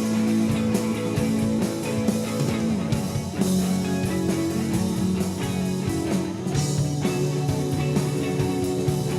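Live alternative rock band playing a guitar-led passage, with sustained guitar notes over drum hits.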